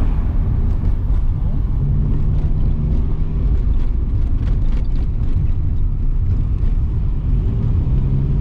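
1993 Saab 900 Turbo S's 2.0-litre turbocharged 16-valve four-cylinder engine running steadily while driving, with low road rumble underneath.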